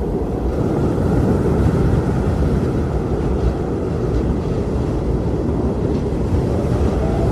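Strong wind blowing steadily, a deep rumbling rush with a faint whistle above it.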